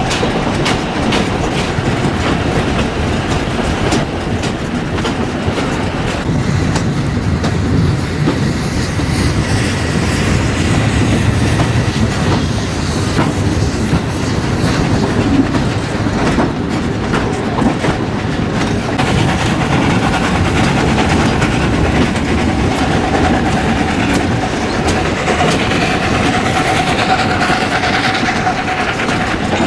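Narrow-gauge (760 mm) steam train running, heard from the side of a carriage: the wheels clatter in quick clicks over the track above a steady rumble. A faint steady whine comes in about two-thirds of the way through.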